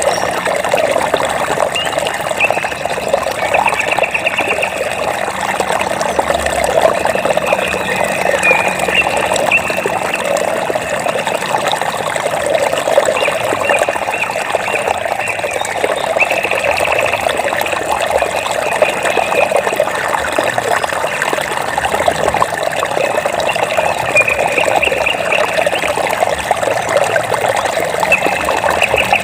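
Water trickling and splashing steadily, like a small stream running over stones. Short, high, fast trills come and go every few seconds above it.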